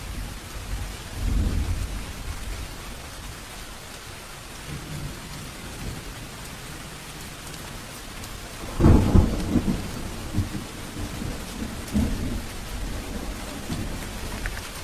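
Steady heavy rain with thunder. A low rumble comes about a second in, a loud thunderclap about nine seconds in, and the thunder rolls on in further rumbles after it.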